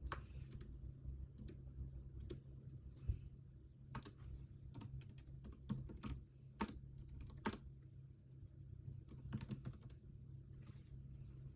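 Typing on a computer keyboard in irregular runs of keystrokes with short pauses between them, over a steady low hum.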